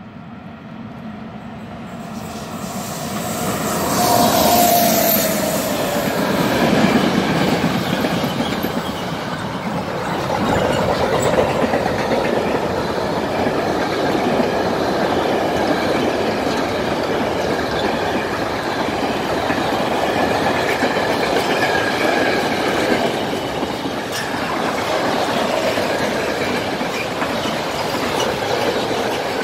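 Freight train approaching and passing close by. The sound builds to its loudest about four seconds in as the locomotive goes past, its tone dropping. Then comes a long, steady rolling of the wagons over the rails, with clickety-clack from the wheels.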